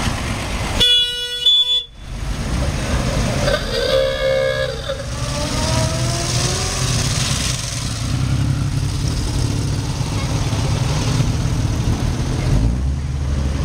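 A car horn sounds two short toots about a second in, with a second, rougher horn-like tone around four seconds in. Vehicle engines keep up a steady low running throughout.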